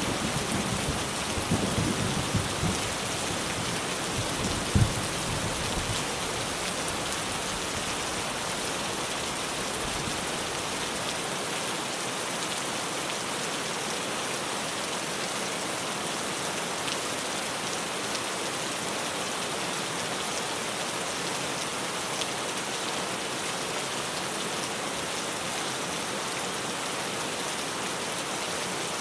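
Heavy rain drumming steadily on a tin roof. The tail of a thunder rumble dies away over the first few seconds, with a short low thump about five seconds in.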